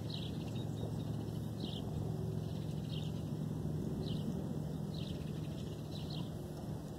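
A bird giving short, high chirps that fall in pitch, repeated about once a second, over a steady low hum.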